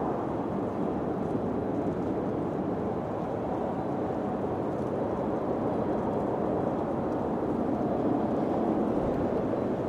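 Wind blowing steadily, a low rushing noise without pauses or sharp sounds.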